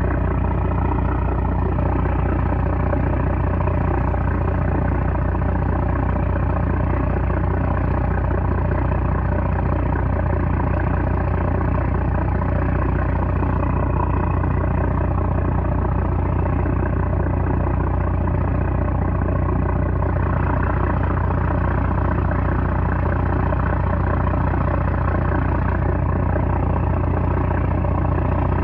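A 960-horsepower trawler's diesel engine running with a steady, unchanging low drone.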